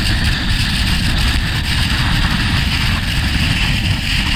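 Strong wind blowing hard against the microphone in polar conditions, a loud, steady buffeting rumble with a hiss of blown snow or air above it.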